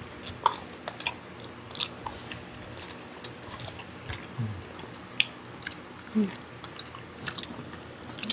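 Close-miked eating sounds: a person chewing food, with irregular wet mouth clicks and smacks.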